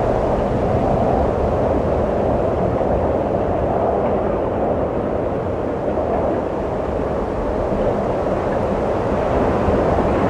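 Wind blowing steadily in a continuous rushing whoosh with a low rumble beneath, easing a little midway and swelling again near the end.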